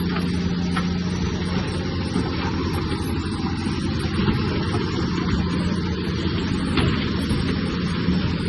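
Heavy diesel engine of earthmoving machinery running steadily: a low, even drone with mechanical noise over it.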